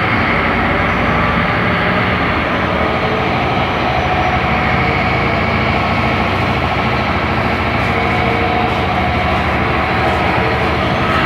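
Diesel engine of a Scania K270IB city bus running at a steady pitch.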